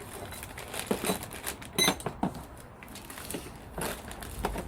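Rummaging through small plumbing fittings and parts: a run of clicks, rattles and knocks, with one ringing metallic clink just under two seconds in.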